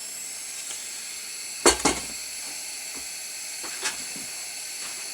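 Tilley X246B pressure paraffin lamp burning with a steady high hiss. Two sharp knocks a little under two seconds in and a fainter one near four seconds as the lamp is handled.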